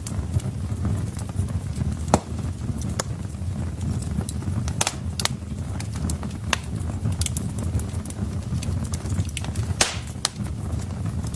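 Logs burning in a fireplace: a steady low rumble of the fire with irregular sharp crackles and pops, the loudest about two, five and ten seconds in.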